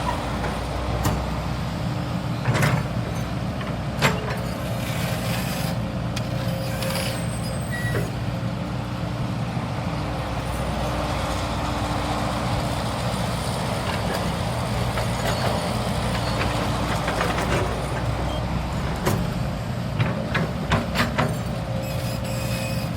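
CAT 320 GC hydraulic excavator's diesel engine running steadily, with scattered sharp knocks and clanks, several close together near the end.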